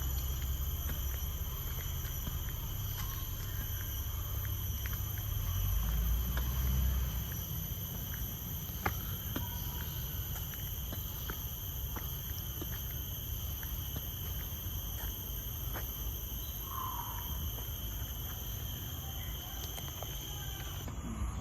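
Tropical forest insects droning in a continuous high-pitched whine at several steady pitches, cutting off just before the end. Scattered light footstep clicks and a low rumble, loudest about six to seven seconds in, run underneath.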